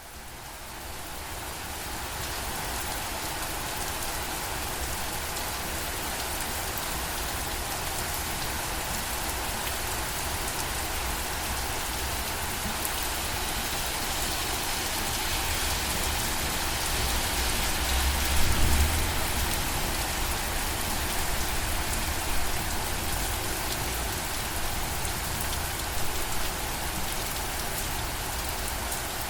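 Steady rain falling on a surface, fading in over the first couple of seconds. A low rumble swells briefly about two-thirds of the way through.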